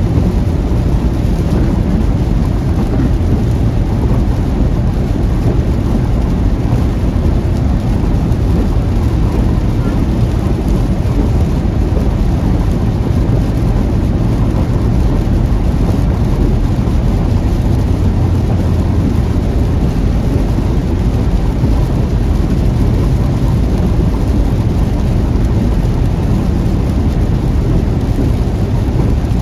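Steady heavy rain with a constant low rumble, heard from a car driving through a thunderstorm.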